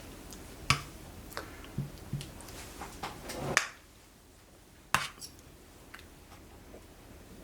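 Spoons clicking and knocking against bowls during eating, a few scattered sharp clinks, the loudest about five seconds in.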